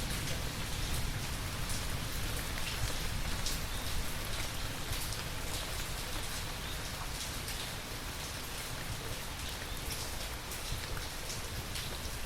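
Steady rain falling, with many individual drops ticking on a hard surface over a low, even rumble.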